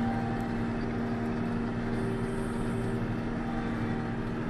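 John Deere 6620 combine running steadily at harvest, with an even drone and a constant hum from its threshing and engine drive.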